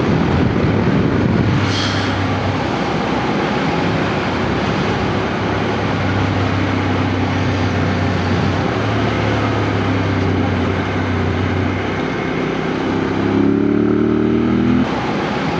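Yamaha Ténéré adventure motorcycle's engine running on the move, under a heavy rush of wind noise. The engine note holds fairly steady, then climbs in pitch as it accelerates near the end and cuts off abruptly.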